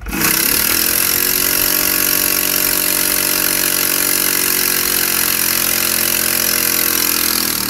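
Compressed-air engine running on a hissing air supply: it starts suddenly, picks up speed within the first half-second, runs at a steady speed, then slows slightly and stops near the end.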